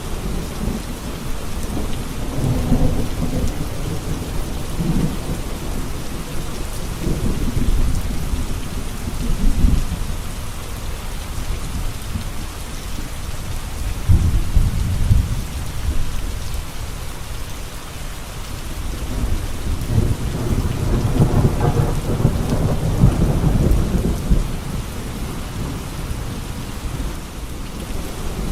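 Steady rain falling, with thunder rumbling several times in long low rolls, the strongest about halfway through and again toward the end.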